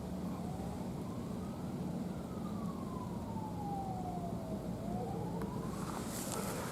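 A siren wailing, its pitch sliding slowly down and up every couple of seconds over a steady low hum, with a few sharp clicks near the end.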